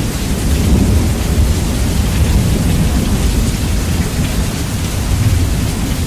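Steady heavy rain with a continuous low rumble of thunder, bass-boosted so that the deep rumble is the loudest part.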